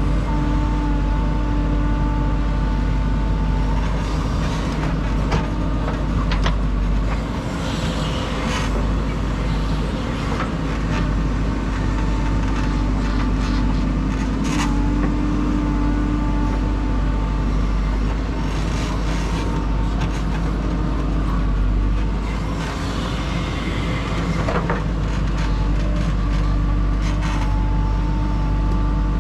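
JCB 3DX backhoe loader's diesel engine running steadily while it works, with scattered knocks and clanks and two stretches of hiss about eight and twenty-three seconds in.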